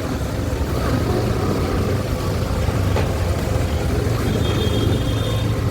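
Motorcycle engine running at a steady pace while riding, a continuous low hum.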